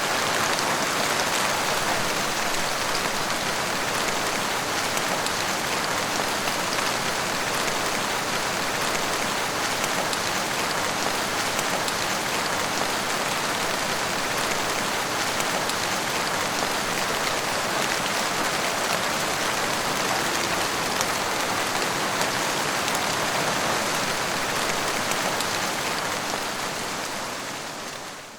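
Steady rain falling, an even hiss of dense drops that holds a constant level and fades out right at the end.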